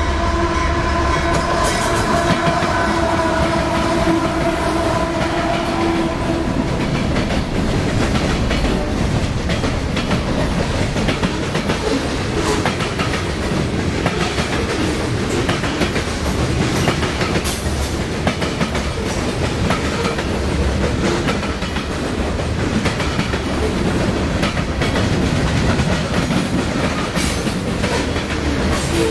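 A CSX freight train passing close by. The lead GE diesel locomotive's air horn sounds one long blast of several tones together, which ends about six seconds in. After that the loaded freight cars roll past with a steady rumble and repeated wheel clicks and clatter.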